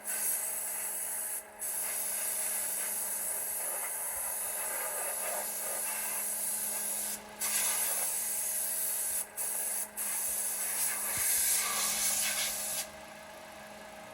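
Compressed-air blow gun hissing in long blasts, let off briefly about four times before it stops near the end.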